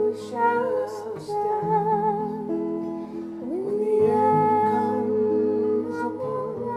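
Acoustic guitar song with voices singing long held notes with vibrato, a rough duet sketch.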